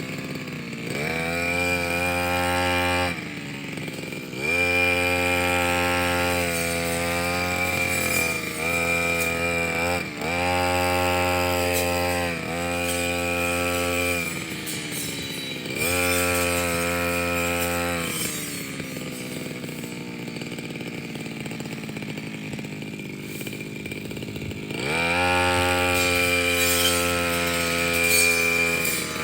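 Petrol brush cutter engine revving up and down with the throttle in repeated bursts. It drops to a lower speed for several seconds in the middle, then revs up again near the end.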